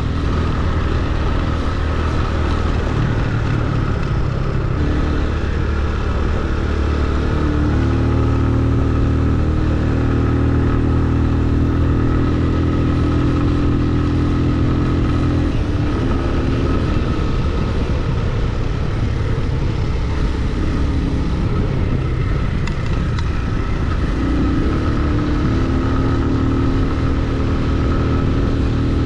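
Motorcycle engine running under way, its note stepping to a new steady pitch several times as the revs change, over a steady rushing noise.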